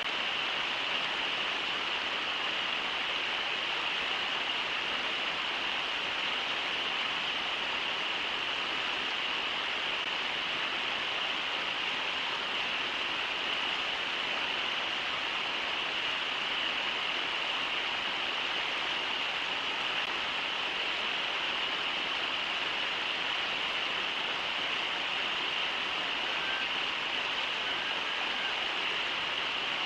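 Steady rush of river water running over shallow riffles. A few faint, short whistles come in near the end.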